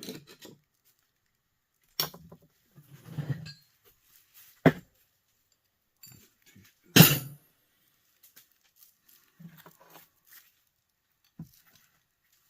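Parts of a small plastic electric heater being worked apart by hand: scattered knocks, clicks and rustles, with a sharp clack about seven seconds in as the loudest.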